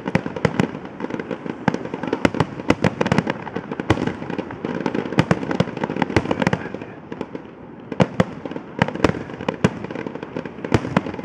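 Fireworks display going off in a rapid barrage: many sharp booms and cracks in quick succession over a continuous crackle and rumble, easing off briefly about two-thirds of the way through before more bangs.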